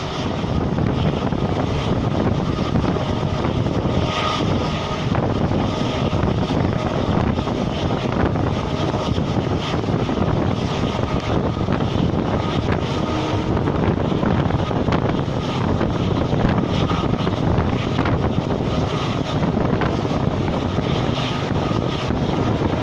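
Diesel-hauled express train running at speed, heard from on board: a steady rushing rumble of the train with wind buffeting the microphone.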